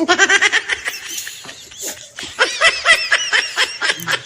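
A person laughing in quick, high-pitched bursts: a fast run at the start, then a squealing stretch in the second half.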